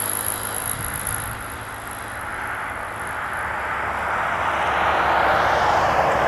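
Jet airliner engine noise: a high thin whine fades early on, then a broad rushing roar swells over the last few seconds as the aircraft passes close.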